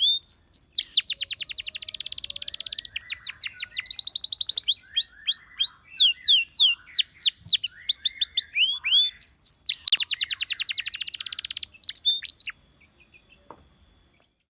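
Canary singing: fast trills of rapidly repeated notes alternating with quick sweeping whistles, stopping abruptly near the end.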